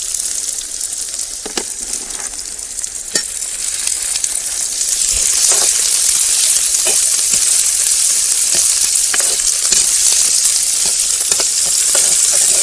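Chopped onions sizzling in hot oil in a kadai, with a spatula clicking against the pan as they are stirred; the sizzle grows louder about five seconds in. They are being fried until they change colour.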